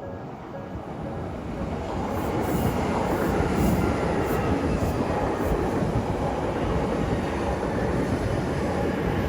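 An electric train running along the tracks, its noise building over the first two seconds and then holding steady, with faint regular clicks of the wheels over rail joints for a few seconds.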